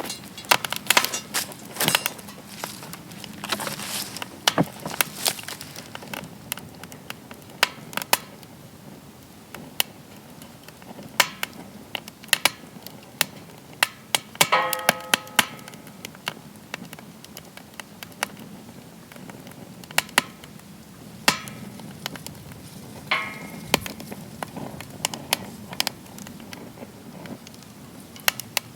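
Wood fire crackling and popping in a metal fire pit, with irregular sharp snaps over a low steady hiss. A brief whistling tone sounds about halfway through.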